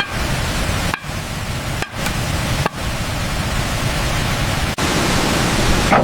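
Steady rushing hiss, broken by several abrupt split-second cuts.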